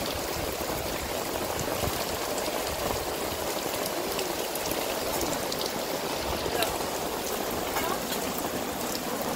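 Steady heavy rain falling on grass, tree leaves and puddles, a continuous hiss dotted with the patter of individual drops.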